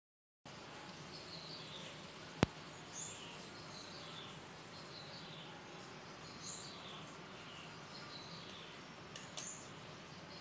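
Small birds chirping in the background: short, high, falling calls repeating about once a second. A sharp click comes a little over two seconds in, and two fainter clicks come near the end.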